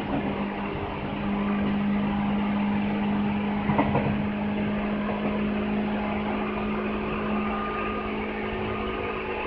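Seibu 2000 series electric train running at speed, heard from inside the car: a steady running rumble with a constant low hum. A short clatter comes about four seconds in.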